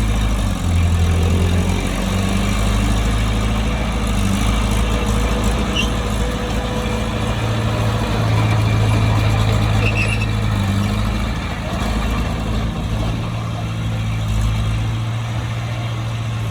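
Heavy diesel earthmoving machine running steadily at work, a low engine drone that swells a little now and then, with two faint brief high squeaks about six and ten seconds in.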